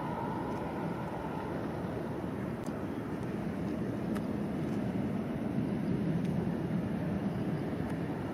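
Jet engines of a Boeing 777 airliner on final approach, a steady low rumble that grows a little louder in the middle of the stretch.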